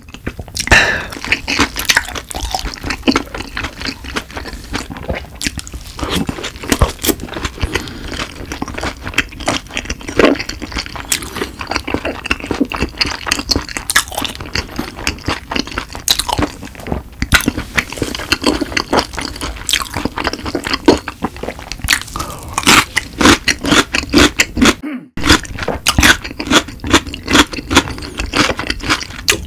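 Close-miked chewing of boneless yangnyeom fried chicken: steady crunching and wet smacking bites, dense and unbroken. The sound stops briefly about 25 seconds in.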